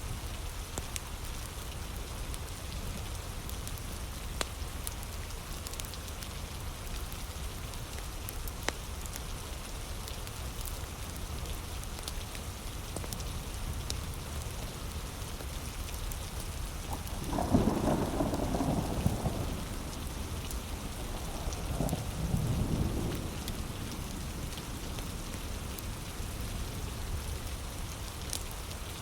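Heavy rain falling steadily with a low rumble, a wood fire crackling now and then, and two rolls of thunder a few seconds apart after the halfway point.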